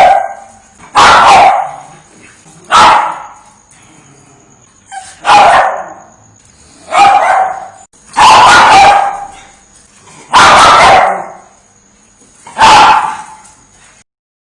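A dog barking: a string of single loud barks, about one every two seconds, stopping just before the end.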